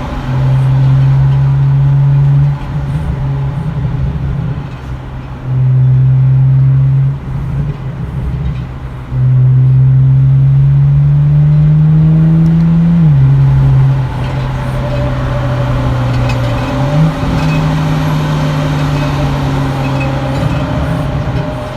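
BMW E90 335i's turbocharged inline-six with the muffler deleted, heard from inside the car with the windows open: a loud exhaust drone that comes and goes with the throttle. It climbs slowly in pitch under acceleration, drops suddenly at a gearshift a little past halfway, then picks up again.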